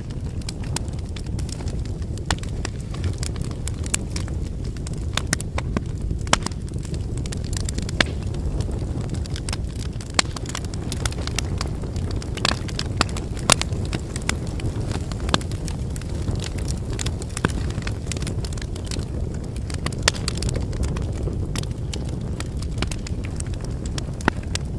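Wood bonfire burning: a steady low rush of flames with frequent, irregular sharp crackles and pops from the burning firewood.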